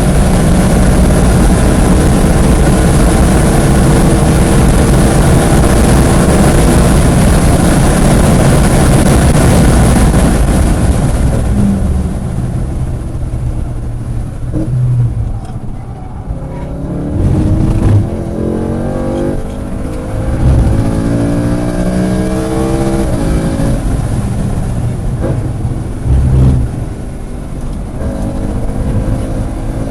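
Track car running hard on a circuit. For about the first eleven seconds, heavy wind and engine noise at speed. After that the engine note climbs in pitch again and again, breaking off at each gear change, with a few brief thumps along the way.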